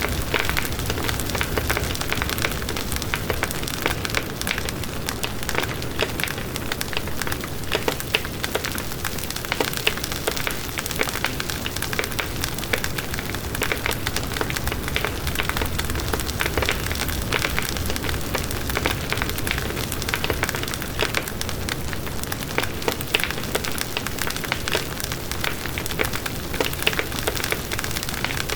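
Firewood burning in a fireplace, crackling steadily with frequent sharp pops and snaps over a dense hiss.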